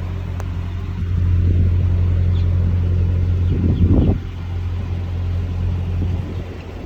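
Steady low drone of an engine running, with a louder rumble that swells and drops away about four seconds in.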